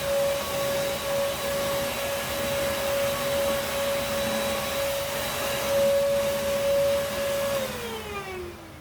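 Vacuum cleaner running with a steady motor whine and airflow hiss, then switched off near the end, its whine falling in pitch as the motor spins down.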